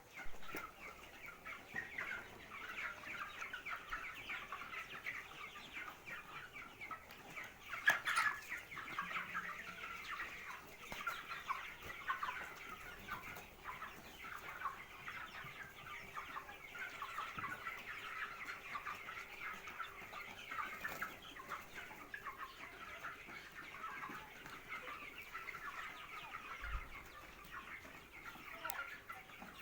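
A flock of broiler chickens calling continuously, a dense chorus of overlapping clucks. A single sharp knock sounds about eight seconds in.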